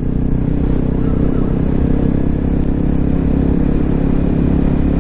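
Honda CRF250L single-cylinder four-stroke engine running at a steady throttle through an FMF Q4 silencer and Megabomb header, heard from the bike while riding along. The pitch holds level throughout.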